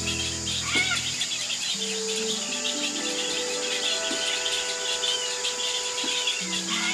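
Steady chorus of insects chirring, under soft background music of long held notes that step upward in pitch. A short falling bird call comes about a second in and another near the end.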